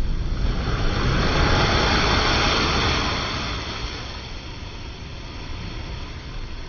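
Sea wave breaking and washing up: a rush that swells over about a second, then fades away by about four seconds in. Wind rumble on the microphone runs underneath.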